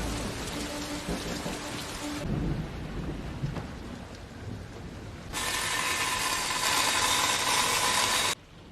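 Hurricane rain and thunder in a film soundtrack. A dense rush of noise is loud at first, eases off for about three seconds, swells again from about five seconds in, then cuts off abruptly near the end.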